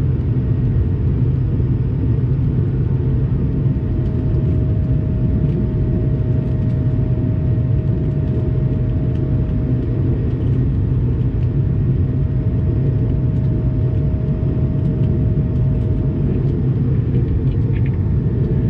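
Steady cabin noise inside an Airbus A220-300 in flight: an even, loud rumble of its Pratt & Whitney PW1500G geared turbofans and the airflow over the fuselage, with a faint steady tone on top.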